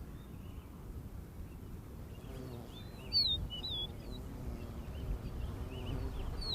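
Small birds chirping in short, curving whistled notes, busier from about two seconds in, with the loudest call just after three seconds, over a low, steady background rumble of outdoor noise.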